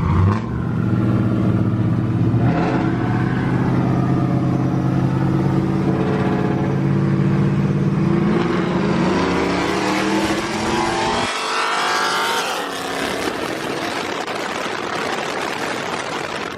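Cammed 6.0-litre V8 of a Chevy Silverado with new headers, running steadily under way, then rising in pitch as it accelerates. About eleven seconds in, the deep engine note drops away abruptly, leaving a rushing hiss.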